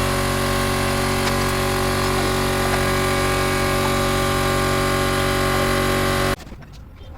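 A motor or machine running steadily at a constant pitch, cutting off suddenly about six seconds in.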